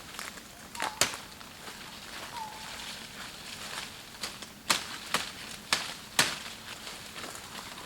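Several sharp cracks, irregularly spaced: one about a second in, then four in quick succession around the middle. A faint short chirp sounds twice between them.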